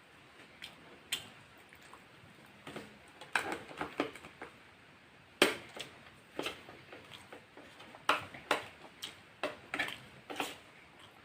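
Close-miked eating sounds: chewing fried chicken with irregular crisp crunches, clicks and wet smacks, the loudest crunch about five seconds in.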